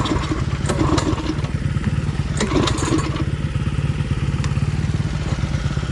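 Small single-cylinder minibike engine idling steadily, with a few short clacks and knocks in the first half.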